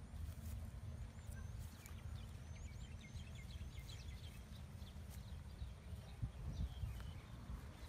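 Small birds chirping in a quick series of short, upward-curving notes, busiest in the first half. Under them runs a low, steady rumble of outdoor background noise.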